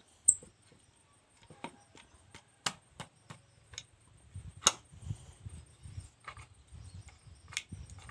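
Irregular sharp clicks and knocks, about a dozen, the loudest just under five seconds in, over a faint low rumble.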